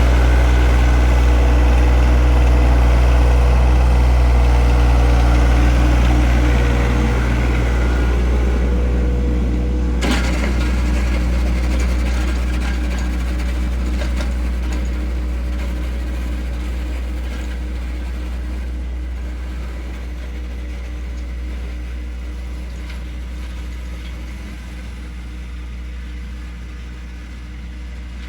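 John Deere 1025R compact tractor's three-cylinder diesel engine running steadily, slowly getting quieter, with a single sharp click about ten seconds in.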